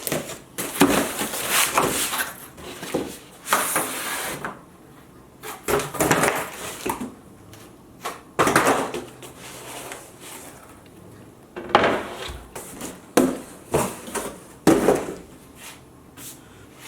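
Unpacking a shipping box by hand: packing material and parts rustling, scraping and knocking in irregular bursts as things are lifted out.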